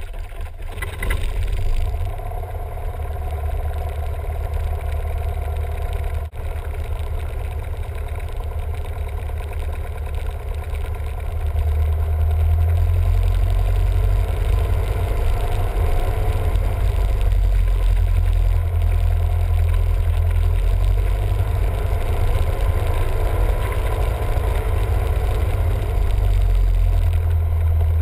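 Cessna 172M's four-cylinder Lycoming piston engine and propeller running steadily, growing louder about eleven seconds in.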